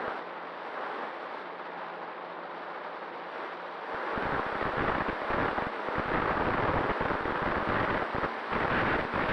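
Wind buffeting the microphone, gusting much louder about four seconds in; a faint steady hum sits under it before the gusts.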